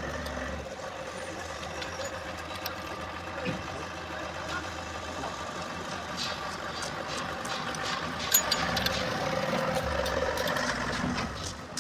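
A motor or engine running steadily, a hum with several even tones that grows a little louder near the end, with scattered light clicks.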